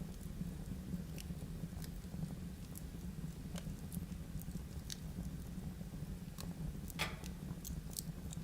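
Wood fire burning in a fireplace: a steady low rumble of flame with scattered sharp crackles and pops, one louder pop about seven seconds in.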